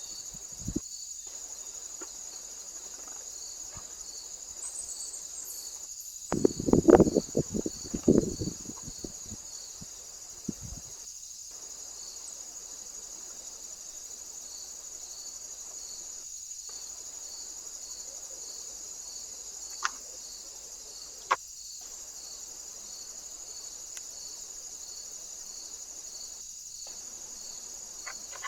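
Steady, high-pitched chorus of crickets chirping in even pulses. About a quarter of the way in, a loud flurry of knocks and rustling sounds close to the microphone for a couple of seconds. Two sharp clicks follow later.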